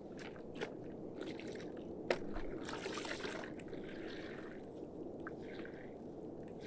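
Water on a concrete slab squishing and scraping under a mop in a few short passes, with some sharp clicks; the slab is being washed before it is sealed.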